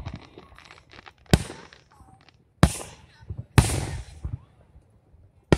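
Aerial firework shells bursting: four sharp booms in quick succession, each trailing off in an echo, the third with a longer tail.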